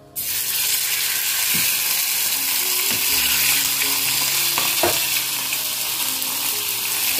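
Beef frying in hot oil in a pan: a loud, steady sizzle that cuts in suddenly just after the start, with a few faint clicks.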